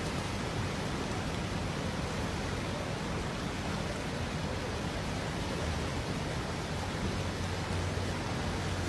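Steady rushing noise of floodwater, with a faint low hum underneath.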